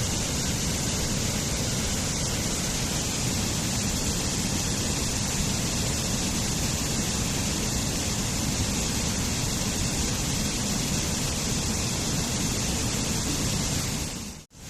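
Waterfall, water falling and splashing in a steady, unbroken rush. Just before the end the sound fades out to near silence for a moment and comes straight back.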